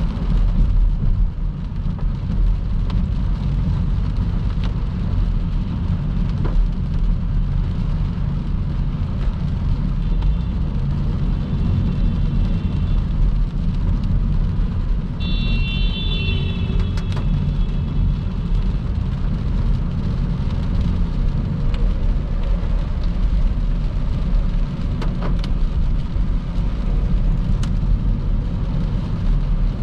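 Car driving at motorway speed on a wet road in heavy rain: a steady low rumble of tyres and road with rain hiss over it. Two short high tones sound about 10 and 15 seconds in.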